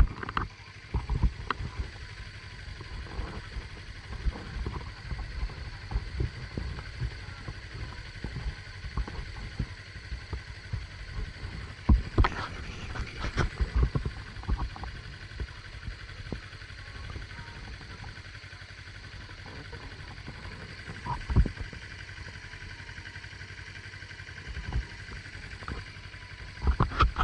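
Wind buffeting the microphone of a helmet-mounted action camera on a moving motorcycle: an uneven low rumble with irregular thumps. The gusts are strongest around 12 to 14 seconds and again about 21 seconds in.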